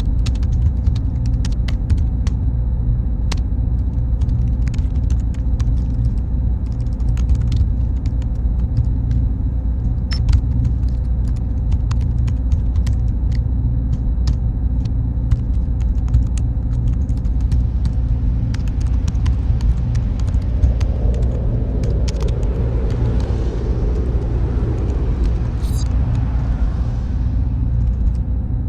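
Steady deep rumble and hum of a server room's machines and cooling fans, with a faint high whine and scattered light clicks. A wash of hiss swells up about two-thirds of the way in and fades away before the end.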